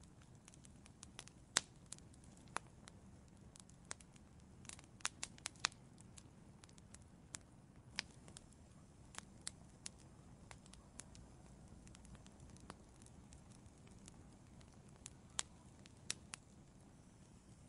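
Wood fire in an outdoor fireplace crackling: irregular sharp pops and snaps, some louder than others, over a faint low hiss of the burning.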